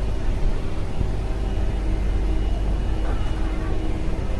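Steady low rumble of commercial kitchen machinery running without a break, with faint steady whining tones above it.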